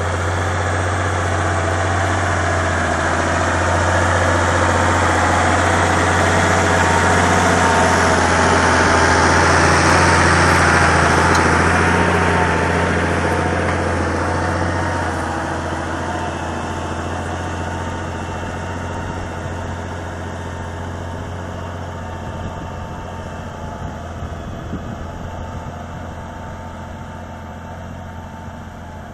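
SAME Titan 165 tractor's diesel engine running with a steady low hum, growing louder to a peak about ten seconds in, then fading steadily as it moves away.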